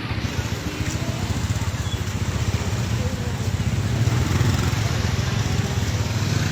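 Strong wind and heavy rain, the wind buffeting the microphone in a steady low rumble over the hiss of the downpour.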